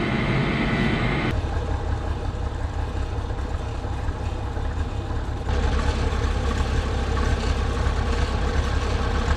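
A steady low mechanical rumble with a faint hum, like an engine running. It shifts in tone about a second in and again about halfway through.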